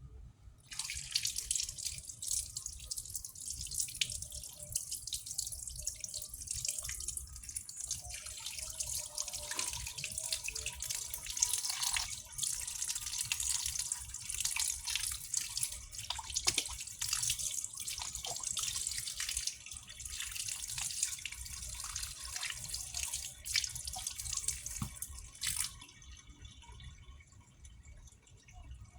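Water running from a tap, starting about a second in and shutting off suddenly near the end.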